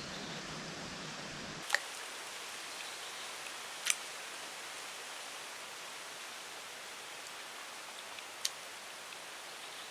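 Steady hiss of rain falling, with three sharp ticks: one about two seconds in, one about four seconds in and one near the end.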